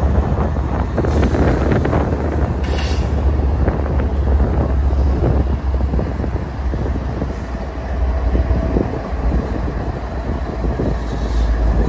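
Union Pacific diesel locomotive running in the middle of a freight train as it passes close by: a steady low engine drone over the rumble of wheels on rail.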